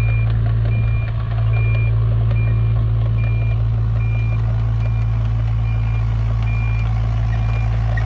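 Kato 35 mini excavator's diesel engine running steadily while its travel alarm beeps in single high tones, a little more than once a second.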